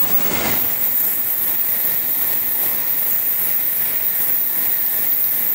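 Steady rushing running noise of a 700 Series Shinkansen heard inside the driver's cab as the train runs, swelling briefly about half a second in.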